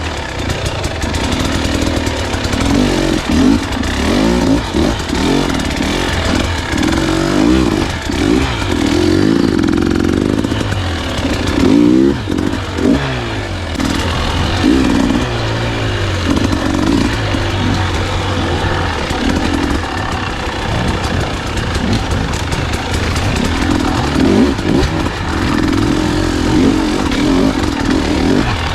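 Husqvarna enduro dirt bike engine being ridden, revving up and down over and over as the throttle is worked.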